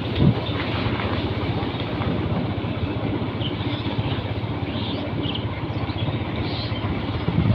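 Motorcycle engine running steadily while riding, with a dense low rumble and a short thump about a quarter second in.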